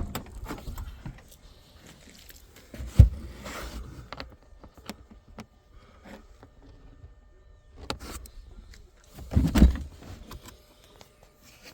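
Dull thumps and handling clatter from hands working on parts: a knock at the start, a sharp one about three seconds in, and a longer, heavier thud about nine seconds in, with light rustling and scraping between them.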